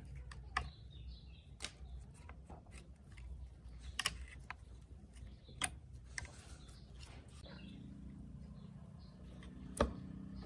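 Scattered clicks and light knocks of hard objects being handled, over a low hum; a steady low drone comes in after about seven and a half seconds, and the loudest knock falls near the end.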